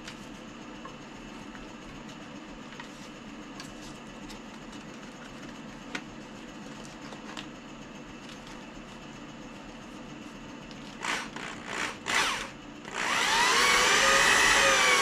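Electric drill blipped three times in short bursts, then run steadily near the end, its motor pitch wavering as it cuts.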